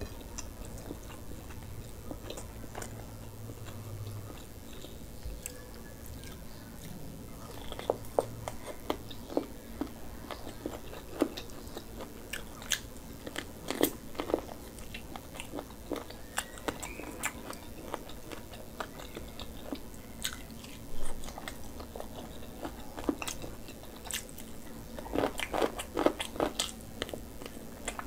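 Close-miked chewing and biting as a man eats chicken and rice by hand: a run of sharp bite clicks, sparse at first, more frequent from about eight seconds in, with a dense cluster near the end.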